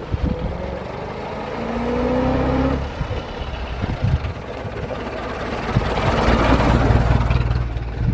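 1924 Dodge Brothers tourer's four-cylinder 3.5-litre engine running under way. Its note rises during the first three seconds, eases off, then builds louder again in the second half.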